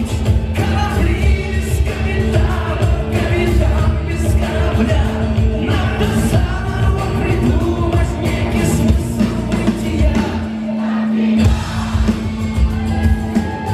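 A live rock band playing at full volume, with steady drum beats, bass and held melodic lines, and singing heard over the band.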